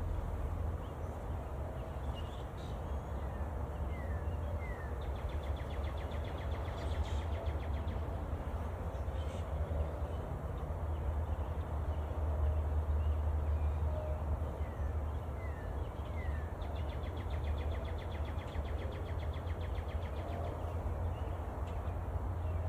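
A songbird singing twice, each song three short falling notes followed by a fast trill, over a steady low rumble.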